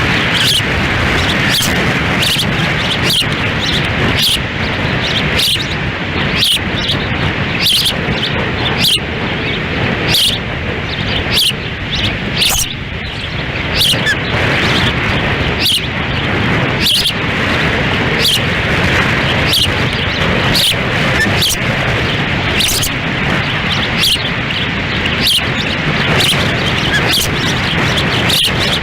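Wind buffeting the microphone with a loud, steady rush. Over it, ospreys give a run of short, high chirps, about one or two a second.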